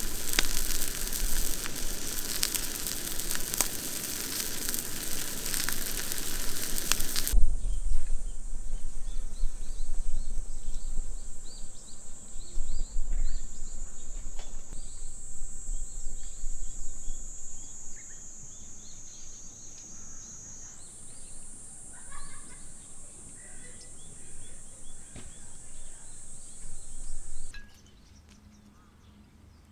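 Food sizzling in a hot pan for about seven seconds, cut off suddenly. Then quieter outdoor ambience follows: a steady high-pitched drone with scattered bird chirps, changing slightly at edits.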